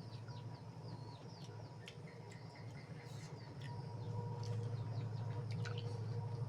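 Small birds chirping: many short, quick downward-sliding chirps, over a steady low hum.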